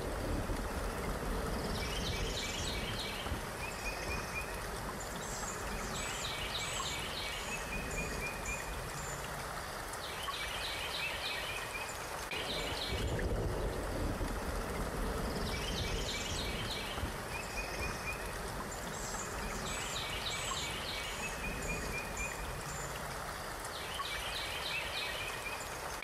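Steady rushing hiss of a nature ambience with a low rumble beneath, over which a songbird gives groups of short chirps and quick trills. The bird calls come back in the same pattern about every eleven seconds, a looped recording.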